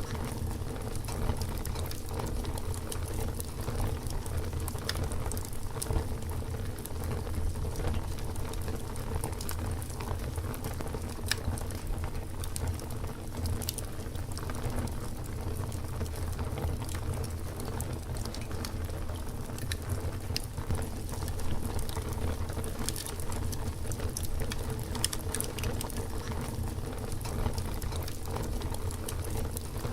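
Campfire crackling: scattered sharp pops and snaps from the burning wood over a steady low rumble.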